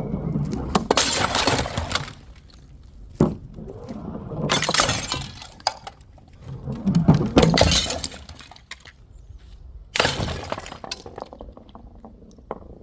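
Glass bottles smashing, four loud crashes a few seconds apart, each followed by shards clinking and settling, with a single sharp knock between the first two.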